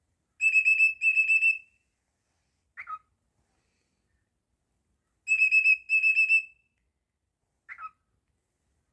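Cockatiel whistling a quick run of repeated high notes twice, about five seconds apart, each followed a second later by a short falling chirp.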